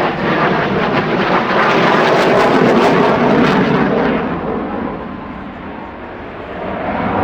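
Jet noise from an Alenia Aermacchi M-346 Master's twin Honeywell F124 turbofans as it flies its display. The noise builds to its loudest about two to three seconds in, then fades and turns duller after about four seconds, and swells again near the end.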